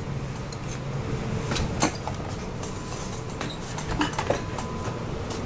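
Scattered light knocks and clatters of things being handled, loudest a little under two seconds in and again around four seconds, over a steady low hum.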